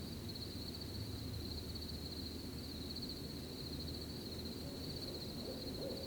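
Crickets chirping in a steady, high, pulsing trill over a low rustle of leaves in the wind. Near the end an owl starts a series of short, evenly spaced hoots, about three or four a second.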